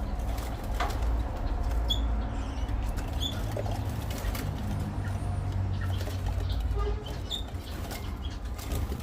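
Small birds giving scattered short, high chirps, with fluttering and rustling, over a steady low rumble.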